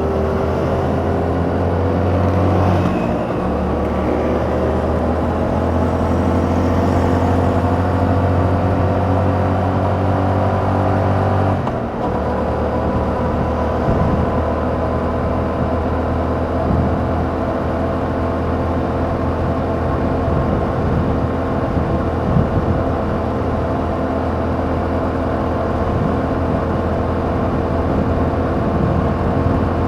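Yamaha MT-07's 689 cc parallel-twin engine through its stock exhaust, pulling in gear with its pitch rising slowly for about twelve seconds. It then drops briefly on an upshift and holds a steady cruising pitch.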